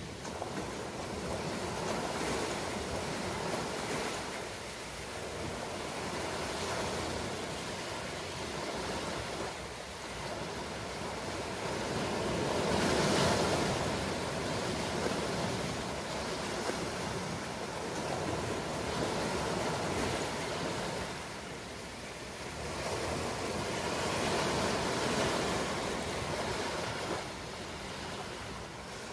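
Ocean surf: waves breaking and washing in continuously, swelling and easing every several seconds, with the strongest wave about 13 seconds in.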